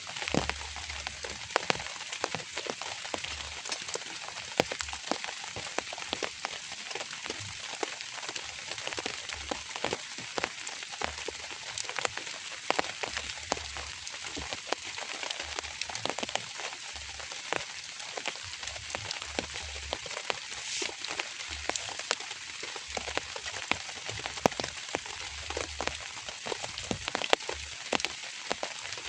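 Drizzle falling steadily, a constant hiss dotted with many separate drops ticking sharply.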